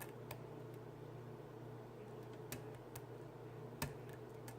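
Four small, sharp metallic clicks from a lock pick working the pins of a 6-pin Medeco BiAxial lock cylinder, the loudest a little before the end, over a steady low hum.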